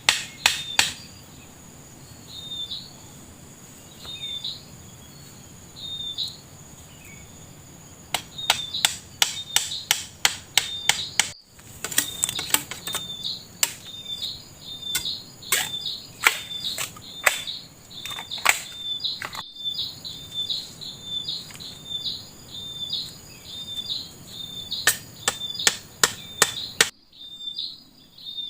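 Quick runs of sharp knocks, several a second, like chopping or hammering, over a bird repeating a short chirping call and a steady high insect whine.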